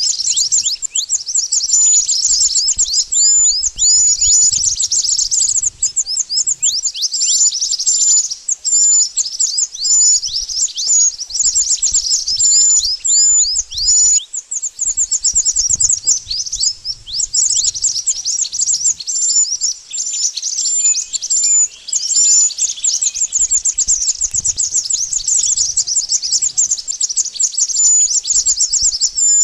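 Mantenan bird (burung mantenan) calling: a fast, unbroken stream of high, thin chirps and short downward-sweeping notes, of the kind played as a lure call for trapping birds.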